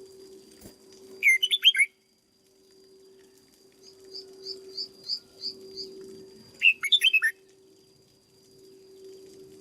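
Red-whiskered bulbul singing: two short, loud song phrases about five seconds apart, with a quieter run of about six evenly spaced high notes between them. A steady low hum runs underneath.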